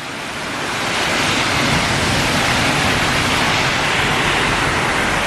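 Heavy rain pouring down in a storm: a loud, steady hiss that swells over the first second or so and then holds.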